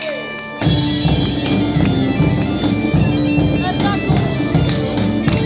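Bagpipes and drums strike up together about half a second in. The pipes play a melody over a steady drone, above a regular drum beat.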